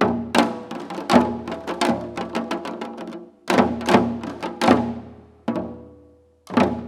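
Janggu, Korean hourglass drums, played in a seoljanggu ensemble. A run of quick strikes slows in the second half to single strikes about a second apart, each one ringing out and fading.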